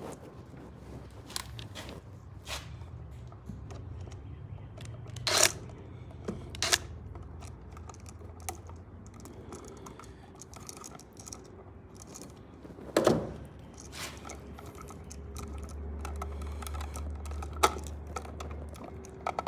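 Scattered clicks and taps of small tools and outlet parts being handled, with a few sharper knocks, over a low steady hum.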